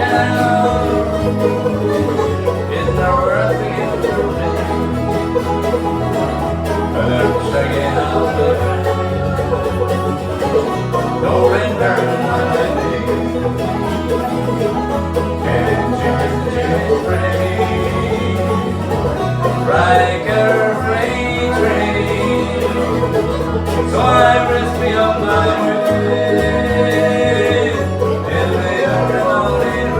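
Acoustic band playing a song: plucked strings over a bass line that steps from note to note.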